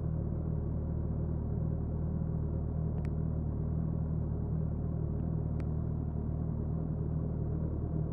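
Suzuki Hayabusa inline-four engine running at a steady, unchanging engine speed, a low even drone with two faint clicks partway through.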